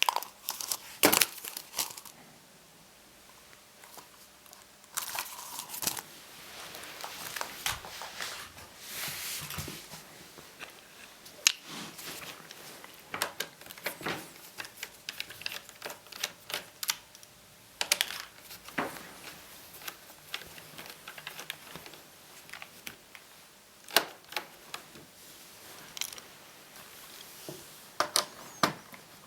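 Plastic laptop parts being handled during disassembly: scattered sharp clicks and taps, with stretches of rustling and scraping as the keyboard and panels are worked loose.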